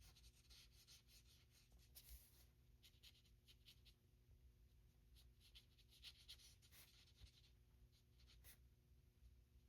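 Near silence, with faint, scattered scratches of a marker tip stroking across stamped cardstock as it colours in small areas.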